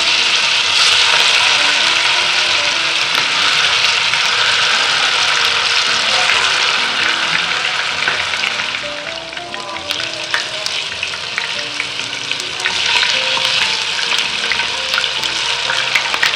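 Tofu pieces deep-frying in hot oil in a non-stick pan, with a loud, steady sizzle. The sizzle eases a little about halfway through, and scattered sharp pops and clicks follow.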